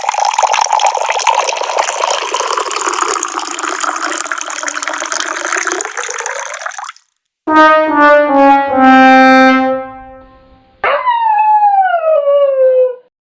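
Comedy sound effects in sequence: a rushing hiss that stops about seven seconds in, then a brass 'sad trombone' tune stepping down note by note to a held low note, then a pitched tone gliding downward.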